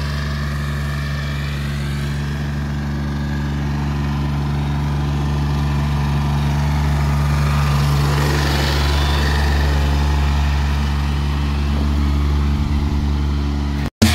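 Tractor engine running steadily, growing a little louder in the middle before settling back.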